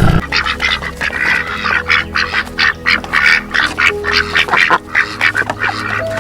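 Rapid run of short, harsh animal calls, several a second, over a faint steady low tone.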